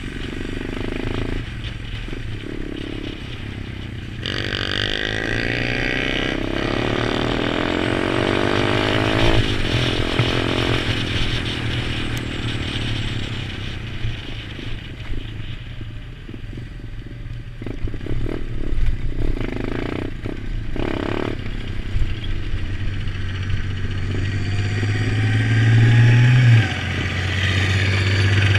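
Pit bike's small single-cylinder engine running and revving as it is ridden, with clatter and scraping over rough ground. Near the end the revs climb to a peak, then drop suddenly to a steadier run.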